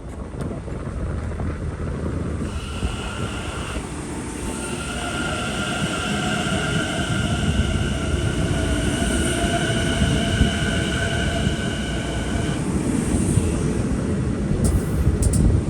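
A Long Island Rail Road M9 electric multiple-unit train rolling past with a steady rumble of wheels on rail. A steady high whine sits over it from about two and a half seconds in until it stops near twelve and a half seconds.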